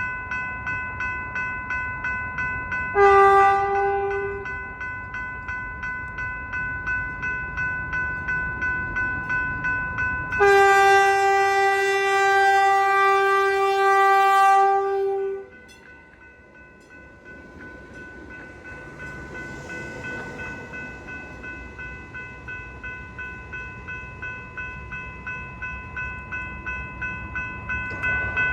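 Railroad crossing bell ringing with steady, regular strikes. A train horn sounds a short blast about three seconds in, then a long blast of several notes together from about ten to fifteen seconds in, the loudest sound here.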